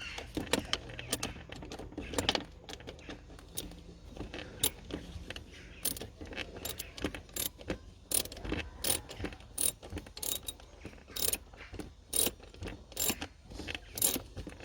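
Ratchet wrench clicking in quick, irregular runs as bolts on a thermostat housing are worked loose.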